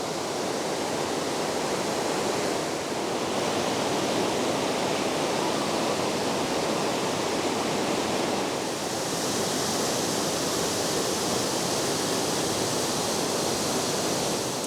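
Waterfall: a steady rush of falling water, its hiss growing a little brighter about two-thirds of the way through.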